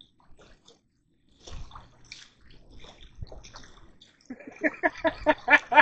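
Water sloshing and splashing at the bank as a hooked catfish is brought in, with scattered small knocks; a man's voice comes in near the end in quick pulses.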